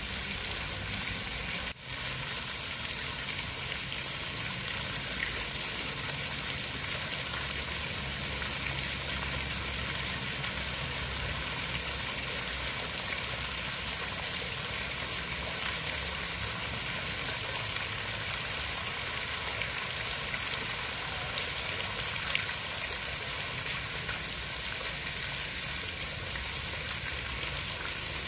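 Continuous steady hiss of water, like rain or running water, with a brief dip in level about two seconds in.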